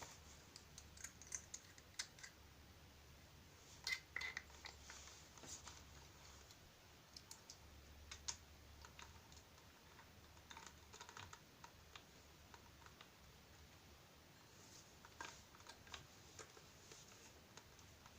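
Faint scattered clicks and metallic taps of a 54 mm hole saw being fitted into a drill chuck, with a denser cluster of clicks about four seconds in and a few more near fifteen seconds.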